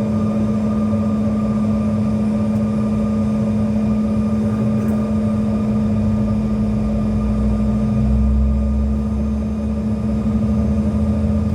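Cabin drone of a CRJ-700 regional jet, whose rear-mounted turbofan engines give a steady hum over rushing noise. The low rumble shifts and strengthens about eight seconds in.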